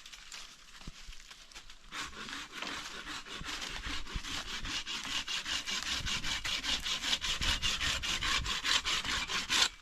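Hand saw cutting through wood in quick, even rasping strokes. The sawing starts about two seconds in, grows louder and stops abruptly near the end.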